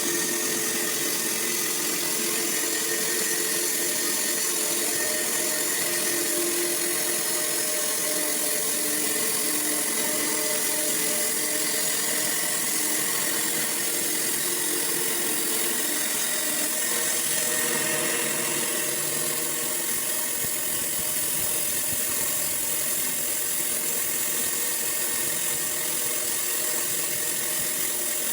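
Sawmill running steadily: a continuous machine drone with a bright hiss, unchanged throughout.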